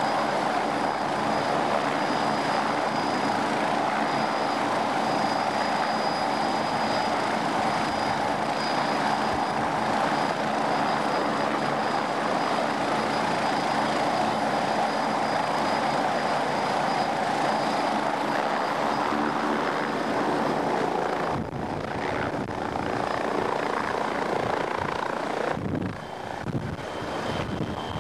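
MBB Bo 105 helicopter's twin Allison turbines and rotor running, a steady dense noise with a thin high turbine whine over it. About three-quarters of the way through, the whine fades and the sound turns rougher and lower, with a short dip near the end.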